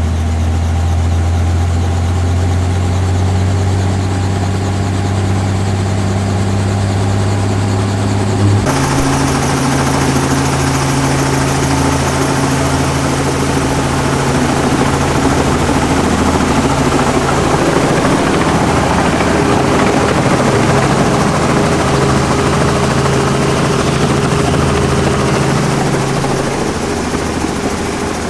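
Helicopter running: a steady low rotor and engine drone. About nine seconds in it changes abruptly to a higher-pitched drone with much more rushing noise.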